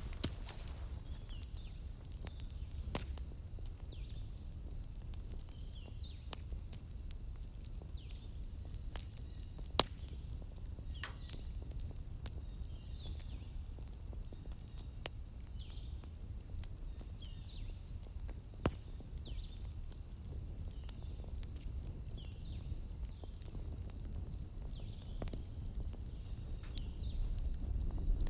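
Wood fire crackling softly, with a few sharp isolated pops several seconds apart, over a low rumble. Behind it runs a steady high-pitched chirring and short falling calls that repeat every second or two.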